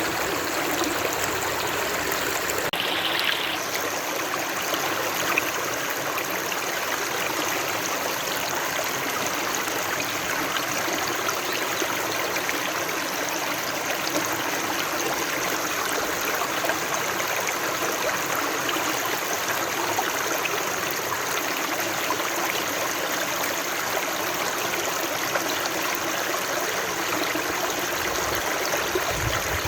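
Running water of a stream, flowing steadily and evenly without a break.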